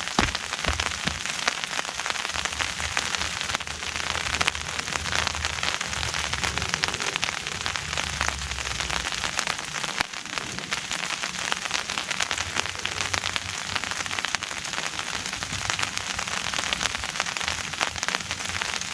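Steady rain pattering: a dense, even spatter of drops hitting a surface.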